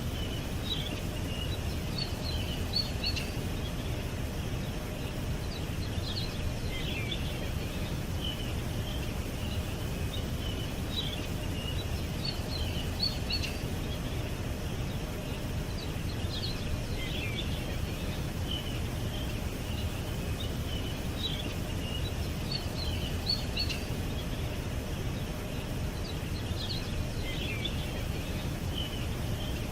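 Small birds chirping and calling in short, scattered high-pitched notes, over a steady low background rumble.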